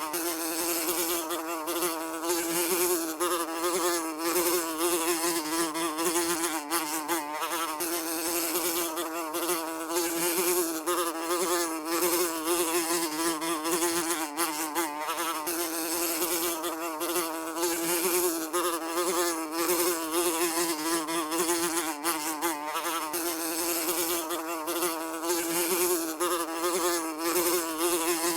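A fly buzzing continuously, one steady wingbeat drone whose pitch wavers slightly up and down.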